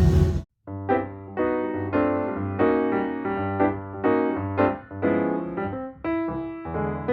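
Piano music: a gentle keyboard melody of single notes and chords. It starts suddenly after a brief silence about half a second in.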